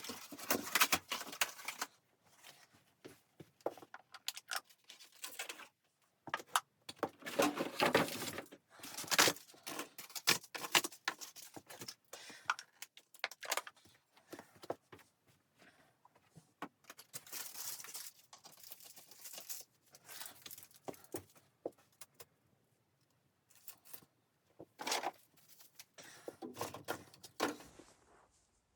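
Irregular bouts of rustling, crinkling and clinking as gear is handled at close range, broken by short pauses.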